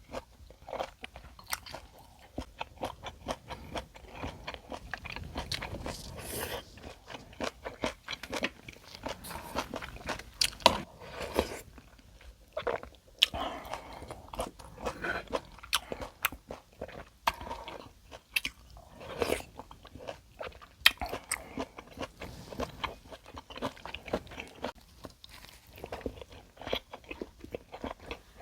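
Close-miked eating sounds of a person chewing and biting a Korean home-cooked meal, with frequent irregular wet mouth clicks and crunches.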